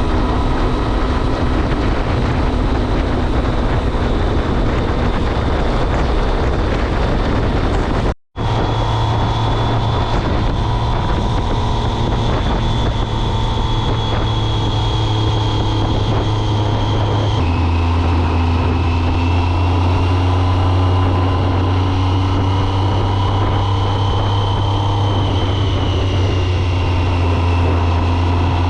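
2006 Triumph Speed Triple's 1050 cc inline-three engine running at a steady cruise, with wind rushing over the microphone. The sound cuts out briefly about eight seconds in. About two-thirds of the way through, the engine note steps lower and then holds steady.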